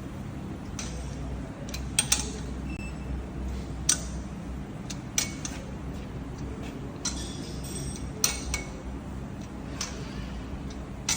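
Metal parts and tools clinking against each other in irregular, sharp knocks, about ten in all, over a steady low machine hum.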